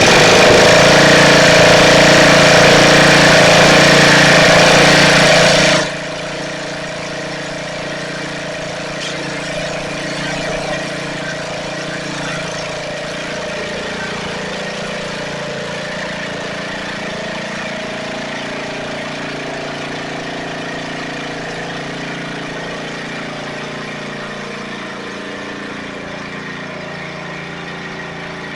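Snapper riding mower engine running just after starting. It is loud for about six seconds, then drops suddenly to a quieter, steady run.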